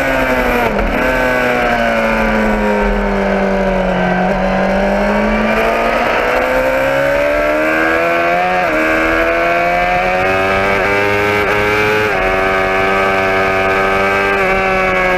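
Motorcycle engine running under way: the revs fall over the first few seconds, climb again, dip briefly about eight and a half seconds in, then hold fairly steady.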